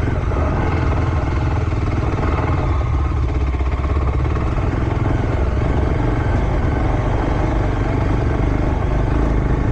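Motocross bike engine running steadily at low speed, with a little more low rumble near the end.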